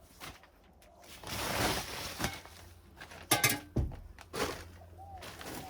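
Garden soil being scooped and poured into a bag, heard as rustling, scraping pours, with a sharp knock about three and a half seconds in, which is the loudest moment.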